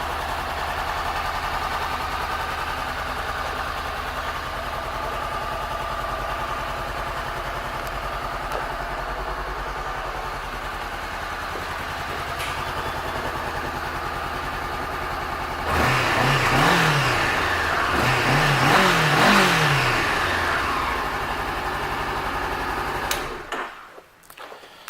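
Honda CBR500R's 471 cc parallel-twin engine idling steadily, then revved up and down a few times about two-thirds of the way in before settling back to idle. It is switched off near the end, and the sound cuts away suddenly.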